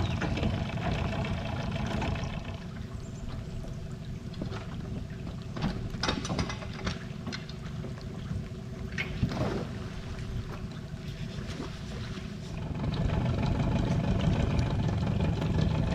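Boat engine running steadily at idle, with a few knocks and clicks about a third and halfway through.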